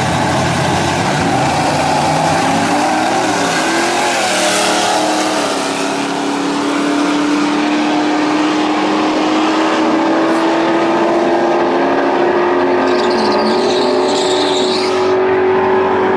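Drag-racing Ford trucks' engines at full throttle on a pass down the strip. The loud engine note climbs slowly and steadily in pitch through the second half.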